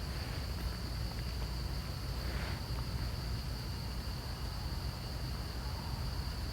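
Steady high-pitched insect drone over a low rumble, with a brief faint sound about two and a half seconds in.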